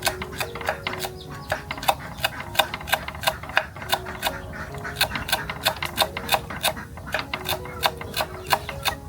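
Quick, uneven sharp taps, several a second, over a soft background melody.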